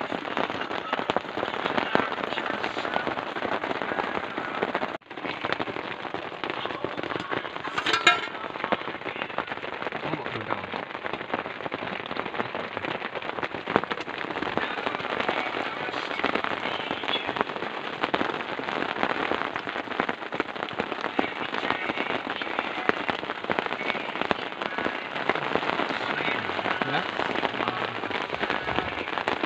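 Heavy rain falling without a break, a dense crackle of drops striking a surface close to the microphone, with one sharp louder tick about eight seconds in.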